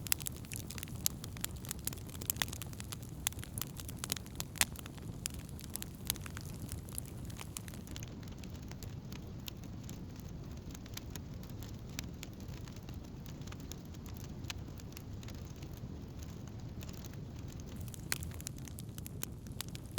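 Wood campfire crackling: sharp pops and snaps over a low, steady rumble of burning. The pops thin out for a while in the middle and pick up again near the end.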